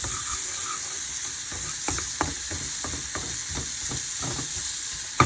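Salmon and onions frying in butter in a pan, with a steady sizzle. A utensil taps and scrapes against the pan irregularly as the fish is broken up and stirred.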